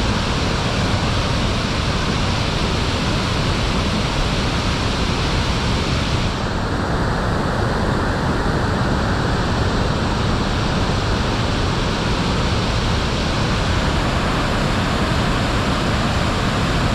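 Devdari waterfall: a loud, steady rush of falling water, its higher hiss thinning slightly about six seconds in.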